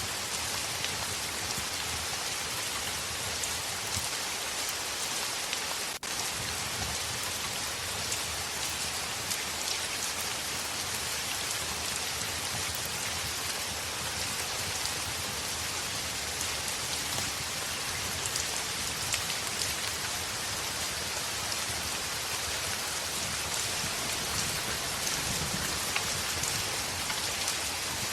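Heavy rain on a window: a steady, even hiss with scattered small ticks and taps, and a brief dip in level about six seconds in.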